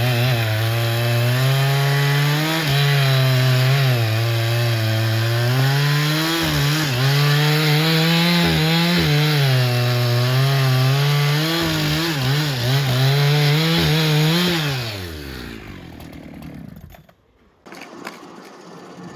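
Sawmill power saw cutting through a black teak log, its pitch dipping and recovering as it works under load. Near the end the cut finishes and the saw's pitch falls as it winds down.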